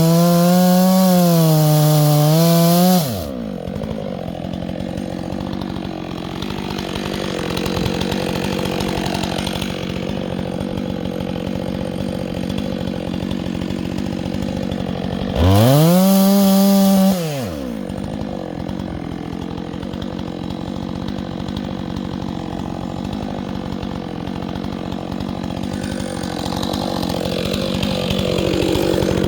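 Chainsaw engine run at high throttle for the first three seconds and again briefly about halfway through, dropping in between to a lower, rattling run. It picks up again near the end.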